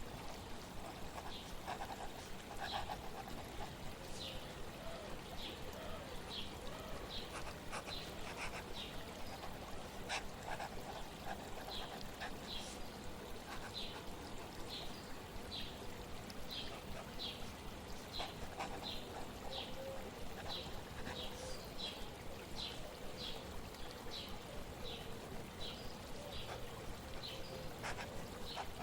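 Steady flowing water with a bird chirping over and over: short, high chirps, sparse at first and then about twice a second through most of the second half.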